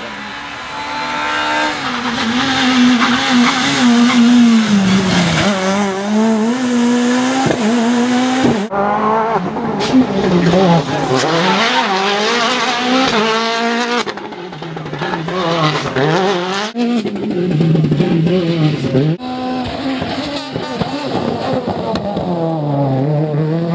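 World Rally Car engines (1.6-litre turbocharged four-cylinders) revving hard through gear changes as several cars pass in turn, the engine note repeatedly climbing and dropping. The sound cuts abruptly from one car to the next a few times.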